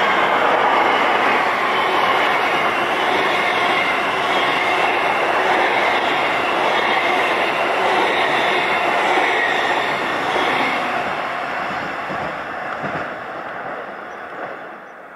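A train passing along the line with loud, steady wheel-on-rail noise, fading away over the last few seconds.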